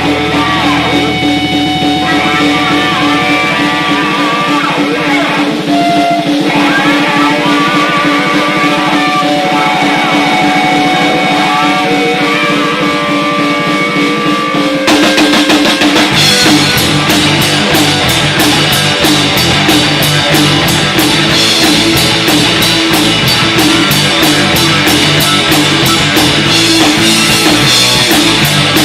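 Live hard rock band playing an instrumental section. For the first half an electric guitar plays held, bent notes over a thinned-out backing, with the bass dropping out a few seconds in. About halfway through the full band crashes back in, with drums, cymbals and bass driving steadily.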